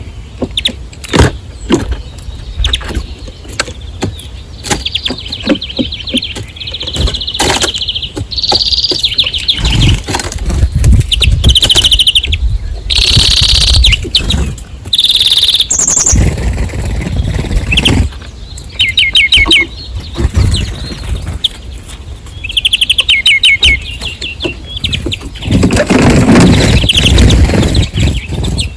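Small songbirds chirping and giving quick rattling trills, with frequent sharp knocks and low thumps mixed in.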